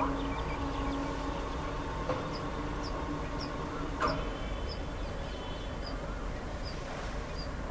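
Rural outdoor ambience: a bird repeats a short, high chirp about twice a second over a steady low hum that breaks off now and then. A couple of brief, louder calls stand out at the start and about four seconds in.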